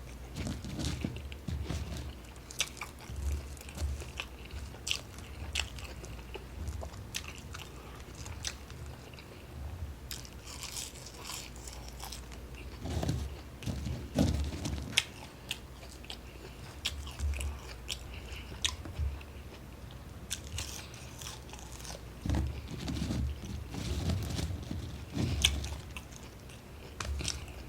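A person chewing and biting French fries close to the microphone: irregular mouth clicks and chews with short pauses between them.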